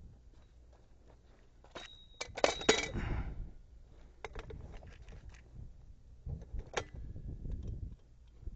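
A short burst of metallic clinking and clicks about two seconds in, with a brief ringing tone, followed by a few scattered clicks and one more sharp click near the end, like small metal objects being handled.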